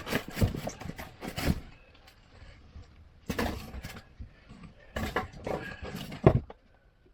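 Irregular knocks, clatter and rustling of a blower motor and its parts being handled, with a sharp knock about six seconds in.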